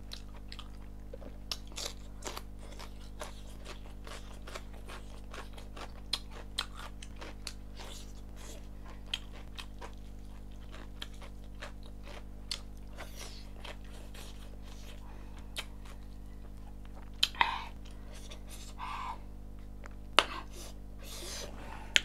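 Close-miked mouth sounds of someone eating chicken and rice: scattered wet clicks and smacks of chewing over a steady low hum, with a few louder smacks near the end.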